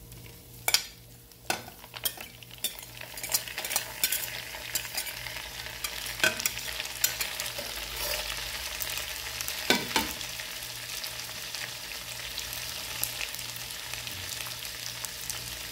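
Chopped onion, tomato, scallion and hot peppers sizzling in hot oil with smoked fish in a metal pan. The sizzle builds over the first few seconds and then holds steady, with a few sharp knocks against the pan in the first ten seconds.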